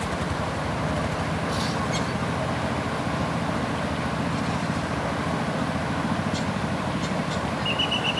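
A motor vehicle engine running steadily, a low even hum over a noisy rumble. Near the end comes a brief, rapid, high-pitched chirping.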